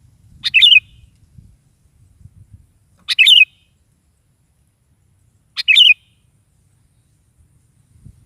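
Sooty-headed bulbul (kutilang) giving three short, loud chirping phrases, about two and a half seconds apart.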